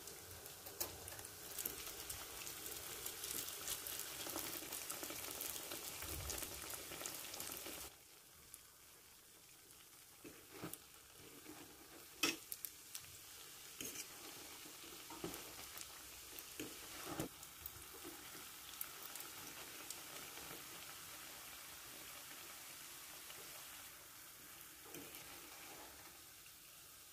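Doughnuts sizzling as they deep-fry in hot oil in a stainless steel pan, a steady crackling hiss that drops to a quieter level about eight seconds in. A few sharp clicks come from the fork knocking against the pan as the doughnuts are turned.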